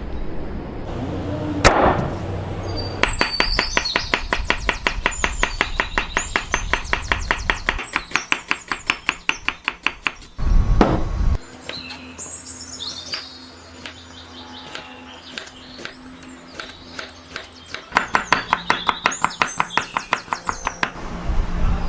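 Knife chopping quickly and evenly on a cutting board, about five strokes a second, in two runs with a pause between. A short loud rush of noise comes about halfway, and birds chirp in the background.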